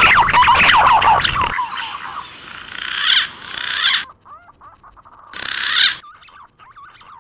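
Green pigeons (punai) calling, played as a hunting lure call: a loud, dense jumble of whistled, warbling notes that thins out after about a second and a half into sparser, quieter gliding whistles. The sound cuts out abruptly twice, about four and six seconds in.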